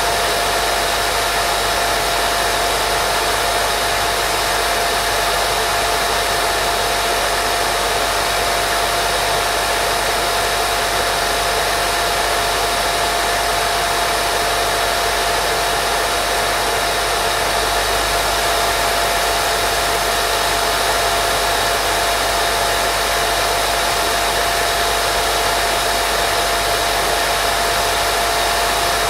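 Continuous white noise for baby sleep: an even, unchanging hiss with a thin steady whine running through it and a faint low rumble beneath.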